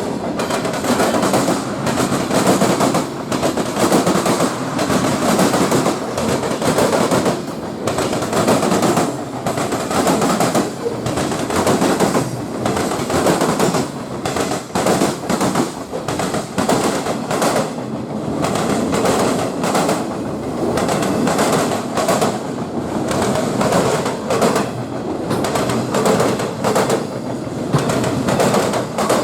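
A train passing close by, its wheels rolling and clattering on the track with a rapid, continuous run of clicks.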